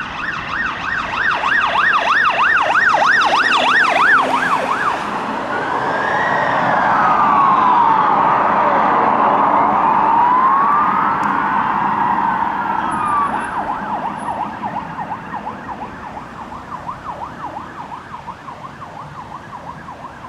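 Emergency vehicle sirens: a fast yelp, then slow rising-and-falling wails from more than one siren overlapping, then a fast yelp again that fades as the vehicles move away.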